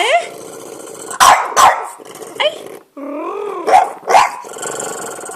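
A French bulldog barking at birds in four short, sharp barks, with grumbling growls between them and a wavering whine a little past the middle.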